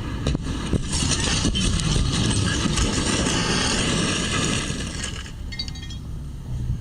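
Car road and engine noise picked up by a dash camera, a steady low rumble, with a louder hiss from about a second in to about five seconds in.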